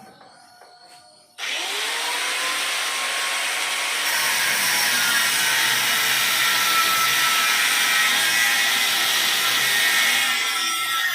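A handheld electric power tool switched on about a second in, its motor whining up to speed, then running with a loud, harsh noise that gets stronger a few seconds later as it works the material.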